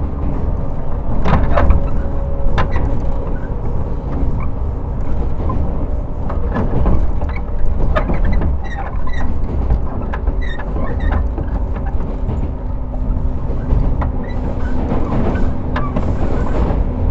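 Interior running noise of a JR 115 series electric train's motor car under way: a steady low rumble with scattered clicks and knocks.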